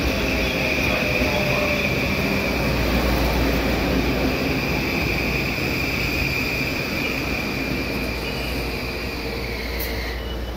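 Metro-North M8 electric multiple-unit train running past close by, a continuous rumble of wheels on rail. Over it runs a steady high whine that sinks a little in pitch and fades out about ten seconds in.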